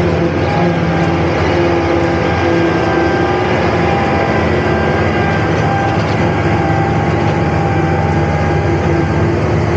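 Heavy farm machinery running steadily: a tractor engine and the machine it drives, at an even load.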